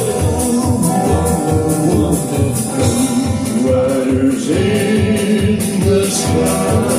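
Live country-western band playing a song with a steady beat and long held notes.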